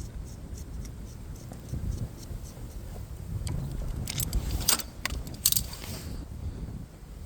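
Metal objects jangling and clinking as they are handled, with a cluster of bright clinks about four to six seconds in, over a low rumble.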